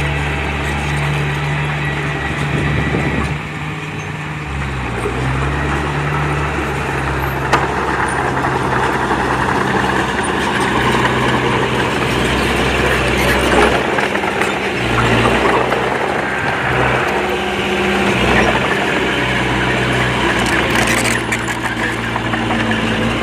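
Diesel engine of heavy earthmoving machinery working under changing load, its engine speed rising and falling several times, with a clattering noise over it.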